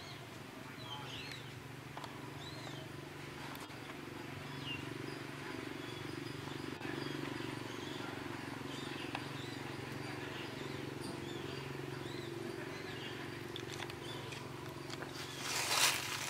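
Outdoor ambience: small birds giving short chirps every second or two over a steady low hum. Near the end comes a loud rustling noise.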